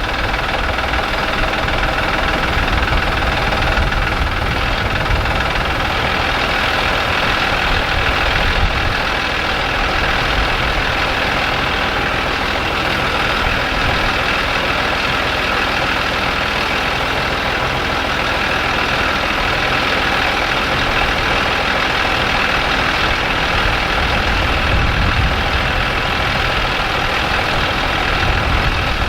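A vehicle engine running steadily at a constant speed.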